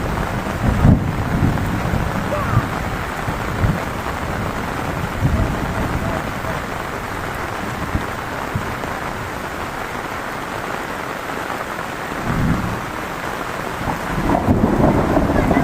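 Heavy rain pouring steadily, with low rumbling surges of wind or distant thunder now and then, growing stronger near the end.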